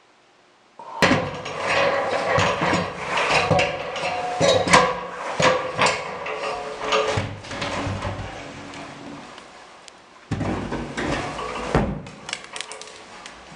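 A busy run of knocks and clanks from hand work on a bell, with a ringing tone held under the strikes. It starts about a second in and dies away, then a second shorter burst of knocking comes near the end, followed by a few light clicks.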